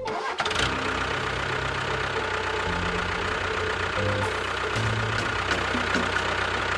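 A vehicle engine running steadily, its low pitch stepping up and down a few times.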